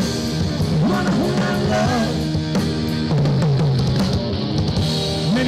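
Live rock band playing, with a drum kit beating steadily under sustained, bending guitar notes.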